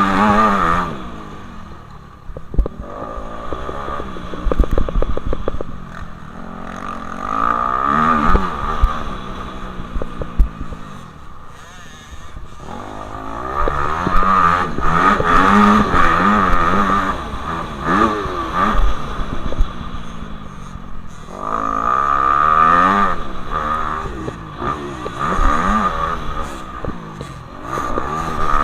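Motocross dirt bikes running past several times, their engines revving up and down as they pass, with a few sharp knocks and clatter in between.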